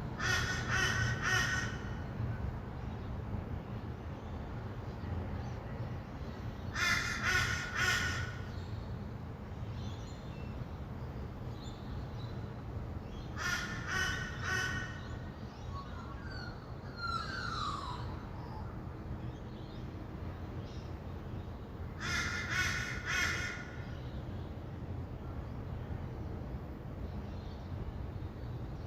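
Harsh, grating bird calls in four separate bursts of a few quick notes each, roughly every seven seconds, with a brief falling call near the middle. Underneath runs the steady low hum of distant traffic.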